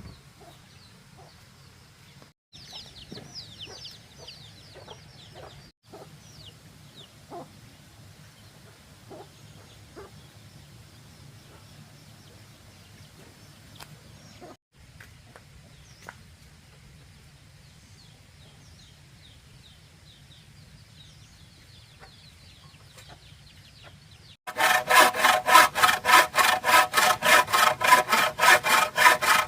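Faint chirping of chickens and small birds for most of the stretch, then near the end a hand saw cutting bamboo starts up loud, with rapid, even back-and-forth strokes of about five a second.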